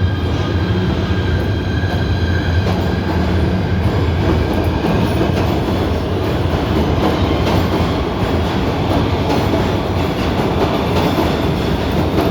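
PATH subway train running at speed, a loud steady rumble of wheels on rail. A faint high whine rides over it in the first few seconds, then fades.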